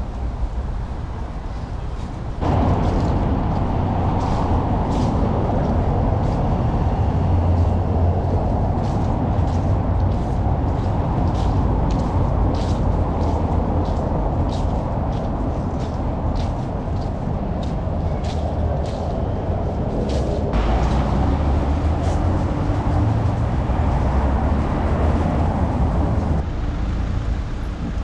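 Old tram running on its rails: a steady low rumble with rolling noise that grows sharply louder about two seconds in, with many quick clicks and rattles over it. The clicks stop about twenty seconds in, and the noise drops back down near the end.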